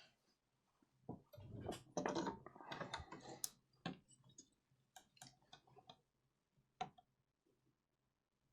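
Faint clatter of small hard objects being handled at a repair bench, most likely the microscope's ring light being picked up and refitted. A quick run of knocks and rattles fills the first few seconds, then a handful of sparse light clicks follow.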